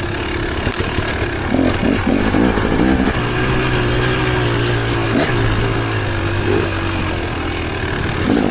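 Off-road dirt bike engine running at low revs, with a few changes of throttle in the first three seconds and then holding steady.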